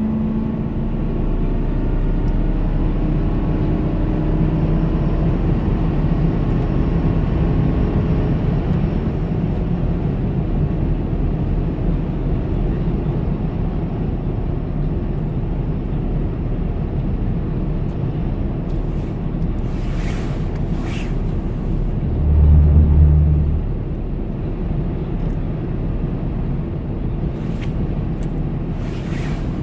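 A 2006 Ford F-150 heard from inside the cab, accelerating under load: engine and road noise with the engine tone rising over the first several seconds, then steady driving. A brief louder low hum comes about two-thirds of the way in. This heavy-load running is when the truck's misfire makes the check engine light flash, which the owner likens to an earlier bad ignition coil.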